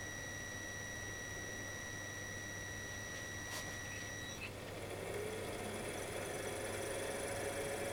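A steady high-pitched tone cuts off about four and a half seconds in, just after a click. The ship's main engine then starts and runs up, its pitch rising and its sound growing louder.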